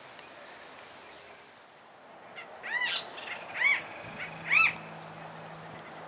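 A bird calling three times, about a second apart, each call a loud arched note that rises and falls in pitch.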